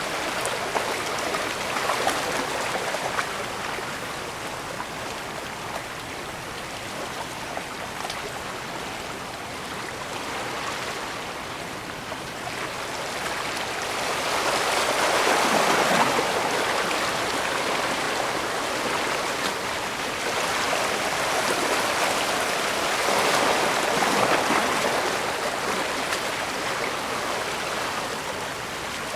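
Bay water washing and lapping at the shore, a steady rush that swells twice into louder washes about halfway through and again near the end.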